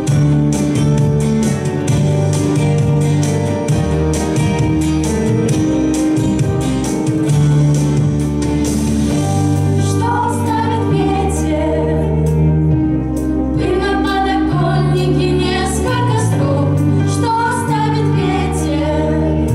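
A song: instrumental accompaniment plays, and a singing voice comes in about ten seconds in.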